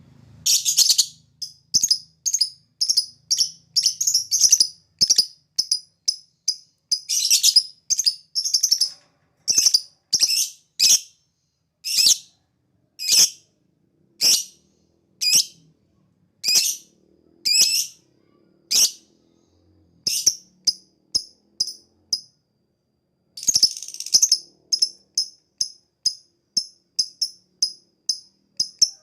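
Lovebird calling in shrill, rapid chattering notes. The notes come in fast runs at first, slow to about one every second, stop for a few seconds, then resume in a fast run near the end.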